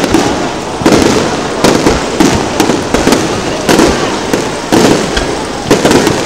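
Aerial firework shells bursting overhead in a rapid barrage: loud bangs, one every half second to a second, with no pause between them.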